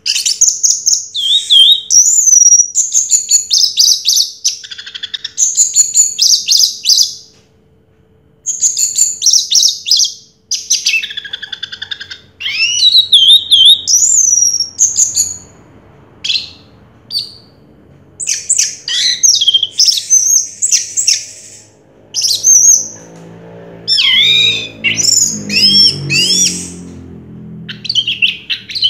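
Orange-headed thrush singing a loud, varied song of rapid whistled, rising and chattering phrases in quick succession, with brief pauses between bursts. A faint steady low hum lies underneath.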